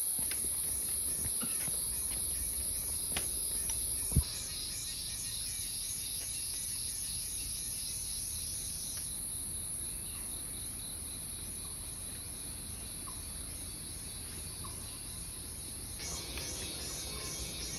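Steady high-pitched insect chorus, with a fast pulsing trill under it that drops out about nine seconds in and comes back near the end. One sharp knock about four seconds in.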